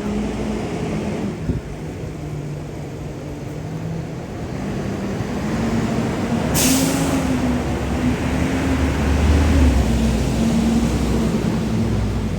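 Engine of a heavy vehicle such as a bus or truck running close by, with a short sharp air-brake hiss about six and a half seconds in. The deep engine rumble swells louder a few seconds later.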